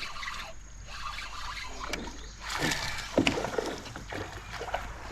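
Water splashing and sloshing around a kayak in uneven bursts, with a few short knocks, as a hooked largemouth bass is played alongside.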